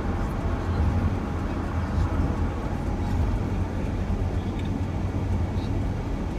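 Steady engine and road rumble inside the cabin of a moving shuttle van.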